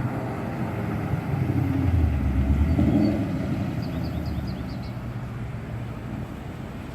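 A 2014 Mustang GT's 5.0 L V8 running through a full aftermarket exhaust. It swells to its loudest about two to three seconds in, then fades steadily.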